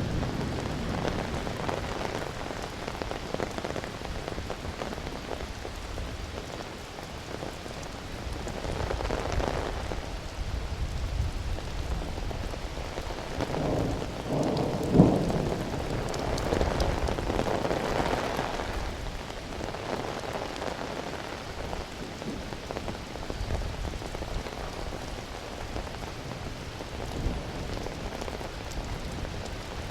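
Steady rain falling, with low rumbles of thunder swelling up several times, the strongest a little past the middle.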